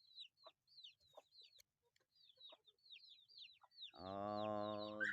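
Young chicks peeping: a quick run of short, high calls, each sliding downward, mixed with a few lower short calls. Near the end, a louder, long, low drawn-out steady sound comes in.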